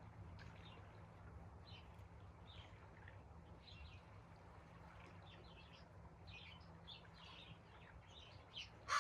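Faint, scattered chirps of small songbirds over a low, steady background rumble; near the end a crow starts cawing loudly.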